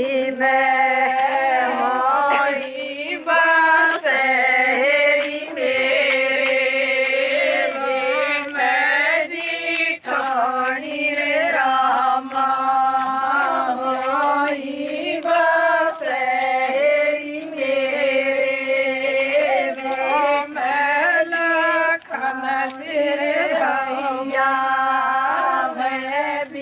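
A group of women singing a Gujjar wedding folk song in unison, in long held, chant-like phrases with short breaks between them.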